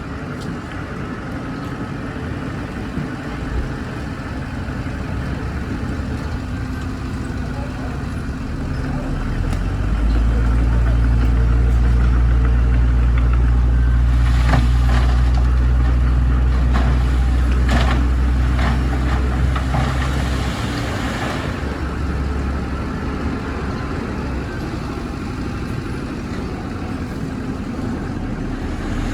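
Heavy earthmoving machine's diesel engine running steadily. It grows louder and deeper about ten seconds in, as if under load or coming close, and eases off after about twenty seconds. A few metallic clanks are heard while it is loudest.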